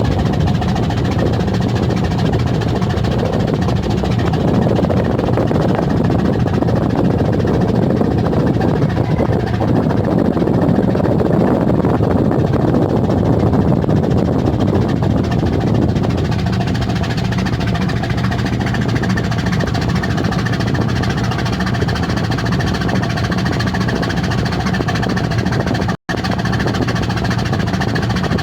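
Steady drone of a ship's engine under a haze of wind and water noise, with a brief cut-out about two seconds before the end.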